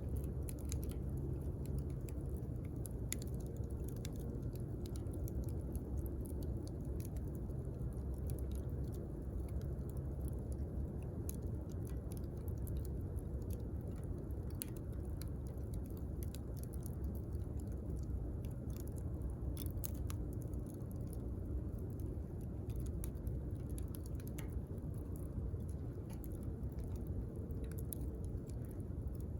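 Wood bonfire burning: a steady low rush of flame with frequent scattered sharp crackles and pops from the burning wood.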